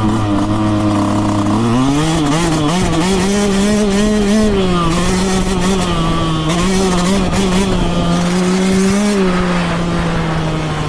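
Yamaha YZ125X two-stroke single-cylinder dirt bike engine running. About a second and a half in the revs rise and are held up, wavering slightly up and down with the throttle, then settle a little lower near the end.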